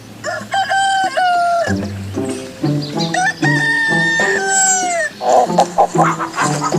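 Rooster crowing twice, each crow a long held call that falls away at its end, followed near the end by quick clucking. Background music plays underneath.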